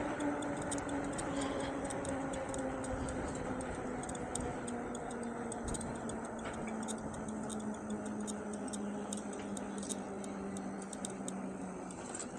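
Engwe Engine Pro e-bike riding along: a pitched motor and drivetrain whine that falls slowly in pitch as the bike slows, over a rumble of wind and tyre noise. Light, irregular ticking sounds over the top throughout.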